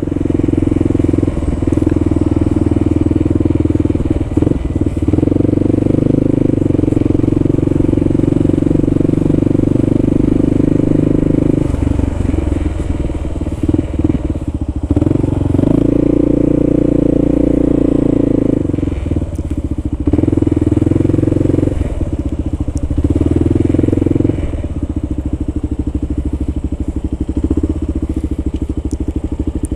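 Kawasaki KLR650's single-cylinder four-stroke engine running under way, the throttle easing off and opening again every few seconds.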